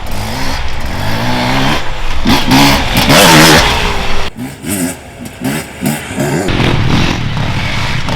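Off-road enduro motorcycles riding past, their engines revving up and down over and over as the riders work the throttle. The loudest pass is about three seconds in; after it come short throttle blips, then a steadier engine note near the end.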